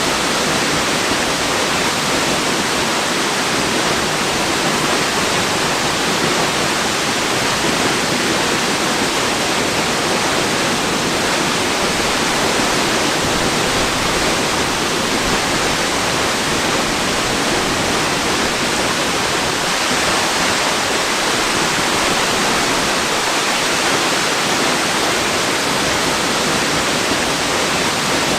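Waterfall: falling water making a steady, unchanging rush with no breaks or separate splashes.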